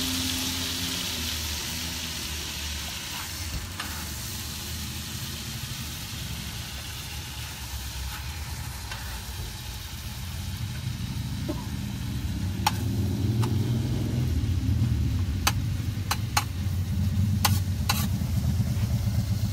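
Food sizzling in a hot pan on a propane cooker, the sizzle fading over the first half. From about halfway a low engine rumble builds and grows louder, with a few sharp clicks near the end.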